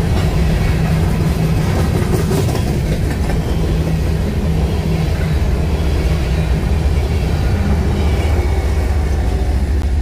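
BNSF grain train of covered hopper cars rolling past at close range: a steady, loud rumble with wheels clattering over the rail joints. The rear locomotive passes last, and its engine tone fades out near the end.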